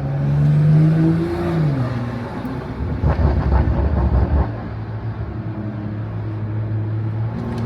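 BMW M340i's turbocharged inline-six engine climbing in revs for about a second, then dropping and settling into a steady low cruise. A heavier low rumble comes through for a second or so in the middle.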